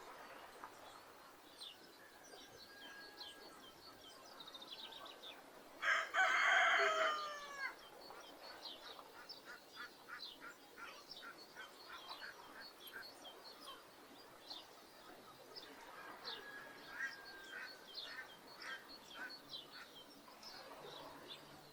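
A rooster crows once, about six seconds in: a loud call lasting about a second and a half, with its pitch falling at the end. Small birds chirp throughout.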